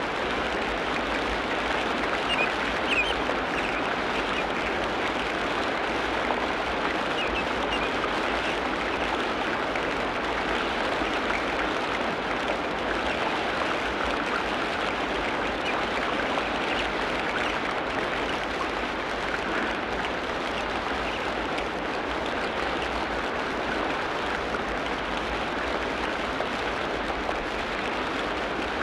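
Tropical rainforest ambience: a steady, dense hiss of patter, with a few faint high chirps about three and seven seconds in.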